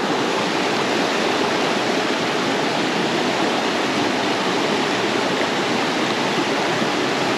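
Steady rushing of a small mountain stream tumbling over rocks, close by.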